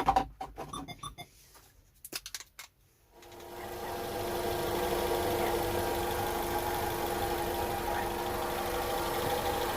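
First-generation Honda CR-V four-cylinder engine idling with a steady hum carrying several held whining tones. It comes in about three seconds in, after a few short beeps and clicks. This is the kind of hum and whine the owner links to incorrect distributor timing.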